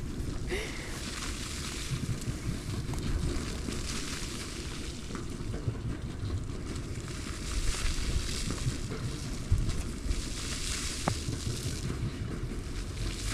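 Wind buffeting the microphone with a low rumble over a steady hiss that swells a couple of times.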